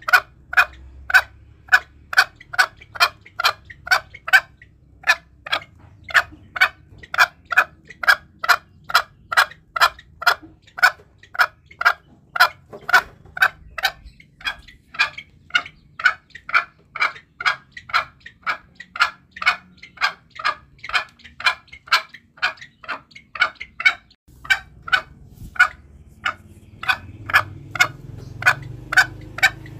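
Green junglefowl clucking: a rapid, even run of short sharp calls, about two to three a second, with a brief pause twice, used as a lure call.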